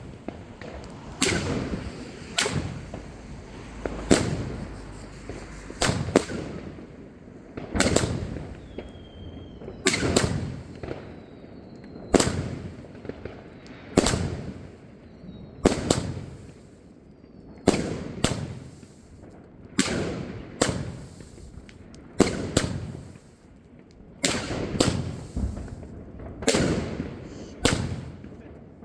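A 25-shot, 30 mm firework cake (Bonfireworks Great Strobe) firing shot after shot: a steady series of sharp bangs, one every second or two.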